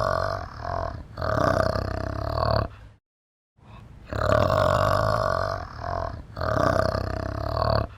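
An animal's low, pulsing, grunt-like call. The same stretch of a few seconds is heard twice, with a brief silence after about three seconds.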